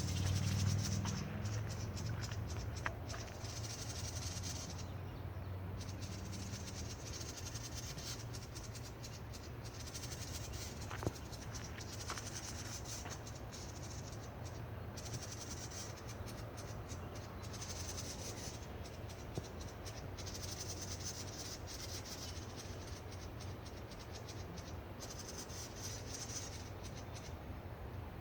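High-pitched animal calls in stretches of a few seconds, stopping and starting again, over a steady low rumble, with a few faint clicks.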